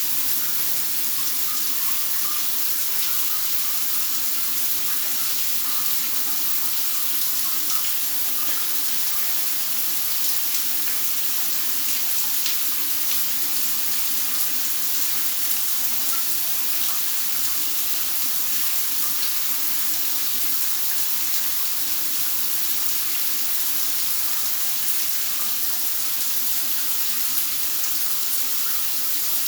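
Steady rain falling: an even hiss with faint scattered drops ticking through it.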